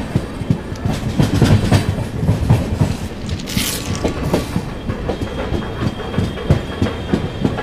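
Moving Indian Railways passenger train heard from alongside its coaches: a steady rumble with wheels clattering and knocking over the rail joints. A brief hiss rises about halfway through, and a faint thin whine sounds near the end.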